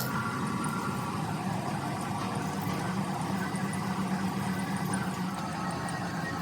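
A workshop machine running steadily with a low, even hum.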